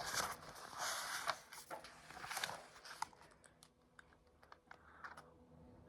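Paper rustling as a picture book is handled and its page turned, followed by a few light taps and clicks.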